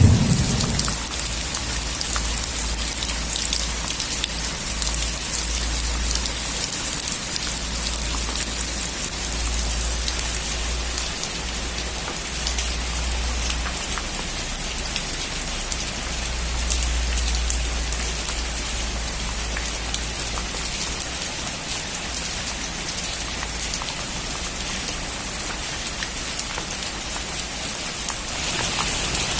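Heavy rain drumming on a metal roof, a dense steady patter of drops with a low rumble underneath, getting louder and brighter near the end.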